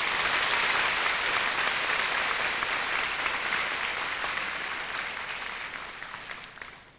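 Audience applauding, a dense clapping that swells in and fades away near the end.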